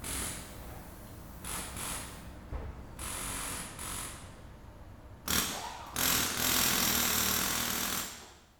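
A shop power tool run in short bursts: several brief bursts, then a louder, longer run of about two seconds near the end that stops abruptly.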